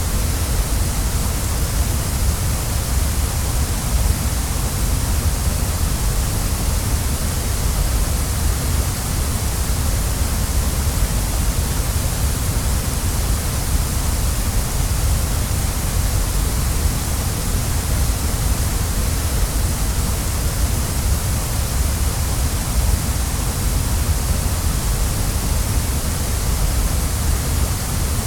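Waterfall: a steady, unbroken rush of falling water, with a deep low rumble under a high hiss.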